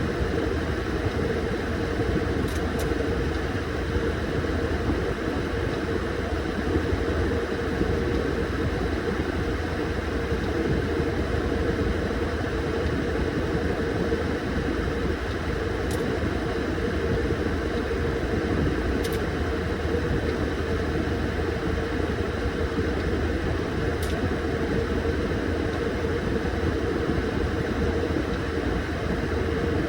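Washing machine running steadily, a constant motor hum and churning, with a few faint ticks.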